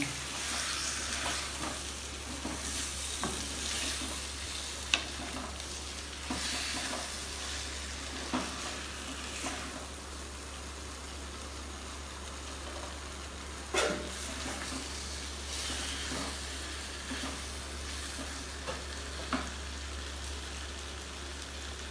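Chicken pieces sizzling in tomato masala in a clay pot while being stirred with a spoon, with a few sharp knocks of the spoon against the pot.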